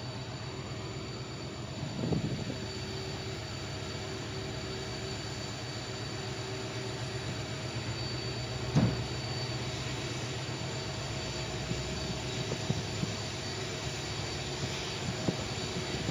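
Passenger train running along the track, heard from on board: a steady rumble with two sharp knocks, about two seconds in and just past the middle, and a scatter of lighter clicks near the end.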